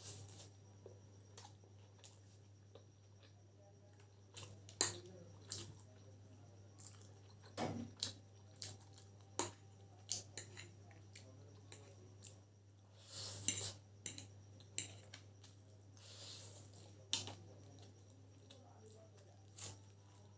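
Scattered sharp clinks and taps against a plate as a plate of chicken chowmein is eaten, with a couple of longer noisy stretches around the middle, over a faint steady hum.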